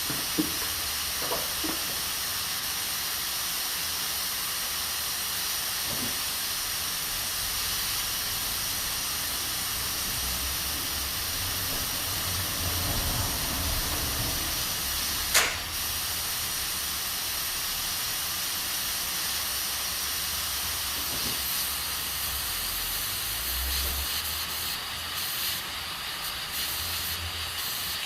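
Aluminium pressure cooker hissing steadily as steam escapes from its valve while it cooks under pressure. A single sharp click comes about halfway through.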